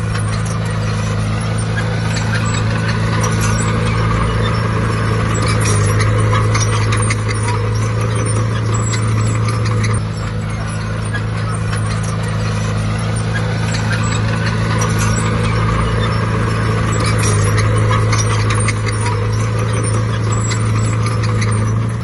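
Heavy diesel engine of earthmoving machinery running steadily, with a dense patter of metallic clinks and rattles that grows busier about a quarter of the way in and again past the three-quarter mark.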